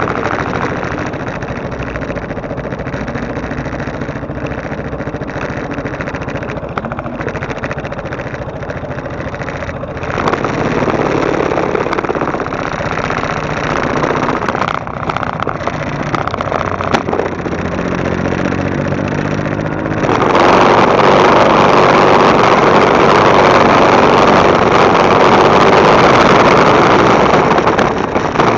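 Motorcycle engine running as the bike is ridden, its pitch rising and falling with engine speed. About two-thirds of the way in the sound becomes much louder and turns into a steady rush.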